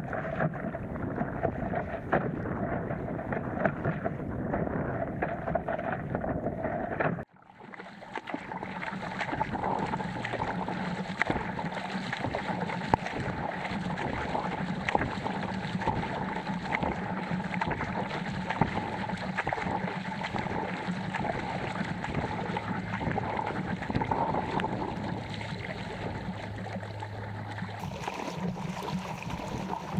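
Wind buffeting the microphone of an action camera, over water splashing against an inflatable stand-up paddleboard as it is paddled on the sea. The sound cuts out briefly about seven seconds in, then comes back.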